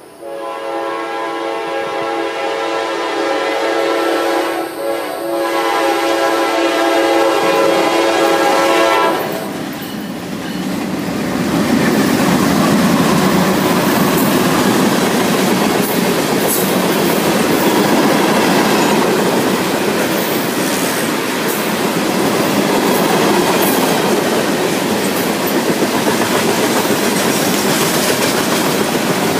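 Norfolk Southern freight locomotive horn sounding in long blasts for the grade crossing, ending about nine seconds in. Then the loaded coal train rolls past, locomotives and coal hopper cars rumbling, wheels clattering over the rails.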